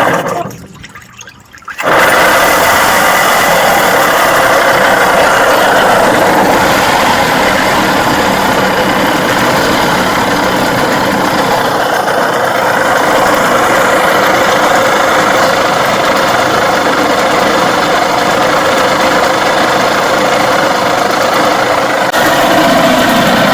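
Tohatsu 4 hp outboard motor catching about two seconds in and then running steadily. Its bearings are worn and noisy from the engine having been underwater.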